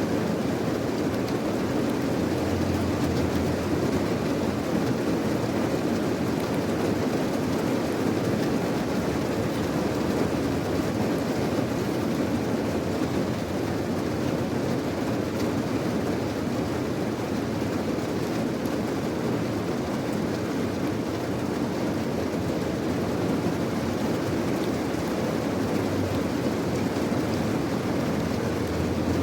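Steady rain falling, an even, unbroken rushing noise that sits deep in pitch, with no separate drops or claps standing out.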